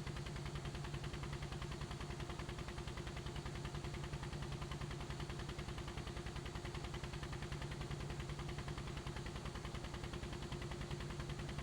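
Helicopter rotor turning steadily: a rapid, even chopping pulse over a steady engine hum.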